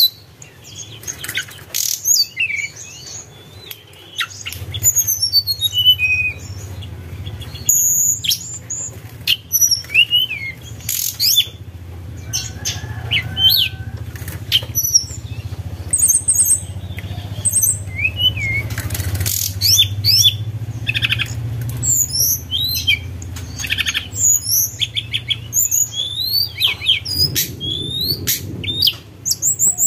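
Tledekan gunung singing a fast run of high, sharp whistled notes and chirps, some gliding up or down, in a fluting song. A low steady hum runs underneath from a few seconds in until near the end.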